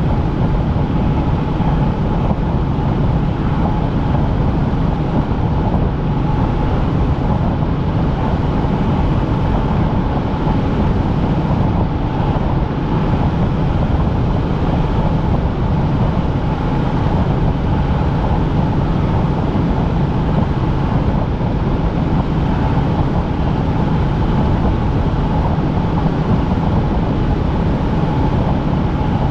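Helicopter in flight heard from inside the cabin: a loud, steady drone of engine and rotor with a constant low hum and a higher steady tone.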